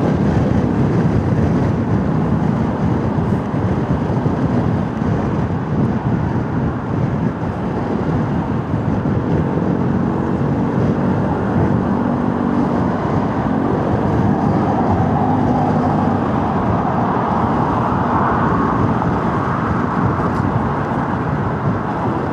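Motorcycle riding noise: steady wind rush over the microphone with the engine running underneath, on a potholed road.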